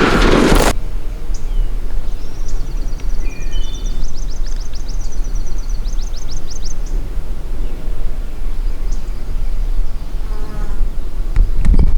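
A shotgun blast dies away in the first second, then a songbird sings a fast trill of high, quickly repeated notes, over a steady low rumble of wind on the microphone.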